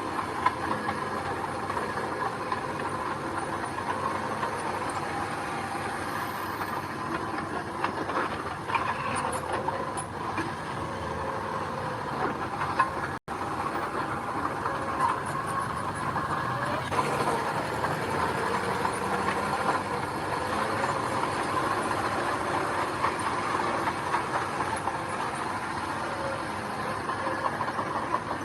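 Mini bulldozer's diesel engine running steadily while working gravel, with a brief dropout in the sound about halfway through.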